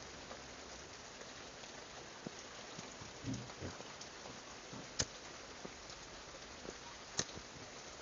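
Steady rain falling, a soft even patter. A sharp click cuts through about five seconds in and again near the end, with a couple of soft low thumps a little past three seconds.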